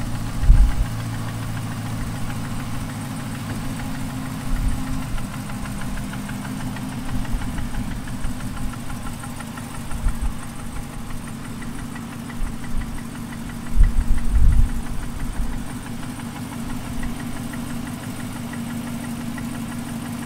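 Cadillac CTS-V's supercharged LT4 V8 idling with a rapid, even tick from the top end, the sign of the failed lifter. A few dull thumps stand out over it, the loudest about fourteen seconds in.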